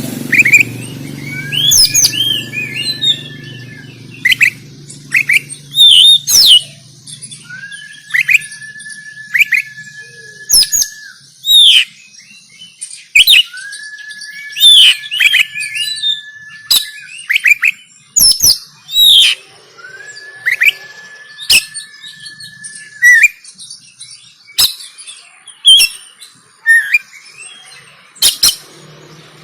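Oriental magpie-robin (kacer) singing loudly in agitated, fighting mood: a fast run of sharp chirps and sliding whistles. A steady held whistle-like tone recurs four times beneath the song.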